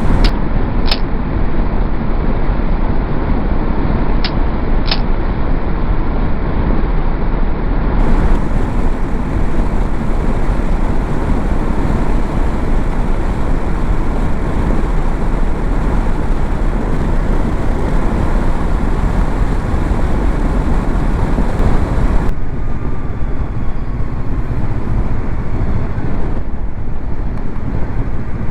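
Honda NX500 motorcycle running at road speed, with steady engine, road and wind rush. The sound changes abruptly about 8 seconds in and again near 22 seconds.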